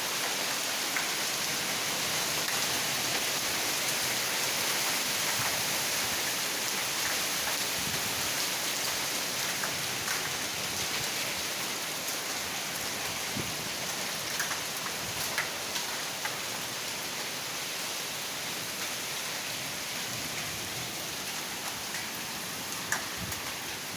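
Heavy rain falling steadily, a constant hiss with scattered sharper drop ticks.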